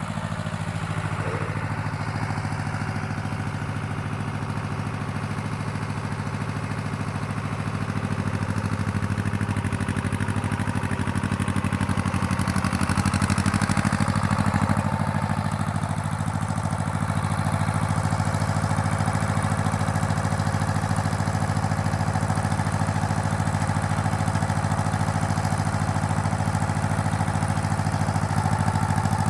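Tractor engine running steadily, a little louder after about eight seconds.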